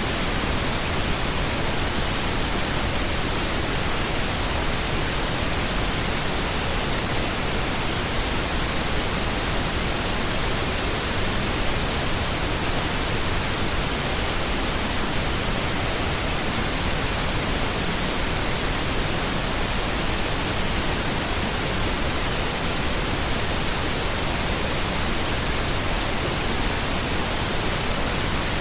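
Steady pink noise: an even, unchanging hiss spread across the whole range, deeper and softer than white noise.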